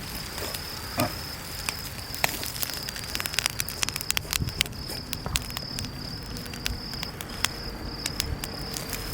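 Charcoal fire in a small fire stand crackling, with sharp pops that come thicker from about three seconds in. An insect trills steadily at a high pitch, with short breaks.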